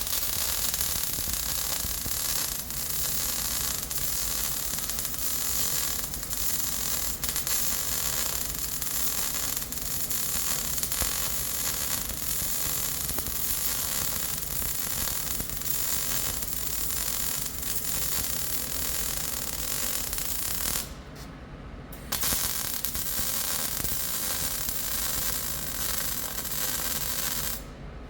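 MIG welding arc on steel, a steady crackling hiss laying a long weld run. It stops for about a second roughly three quarters of the way through, restarts for a second run, and cuts off just before the end.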